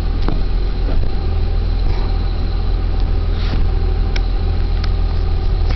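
Ford 4.9 L (300 cu in) straight-six engine idling steadily, with a few light clicks.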